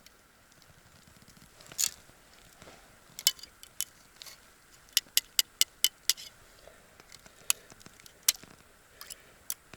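Footsteps on the forest floor in late autumn, with a string of sharp crackles and snaps underfoot, quickest in a run of about five snaps a second around the middle.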